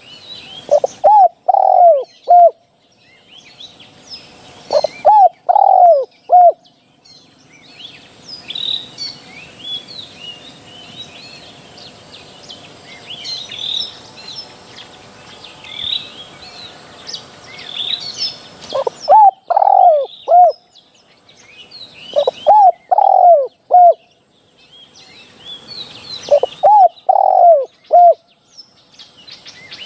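Spotted dove cooing, a decoy call for luring wild doves: five loud phrases of three or four short, bubbling coo notes each, one near the start, one about five seconds in, then three close together in the last third. Other small birds chirp faintly in the gaps, most in the long pause in the middle.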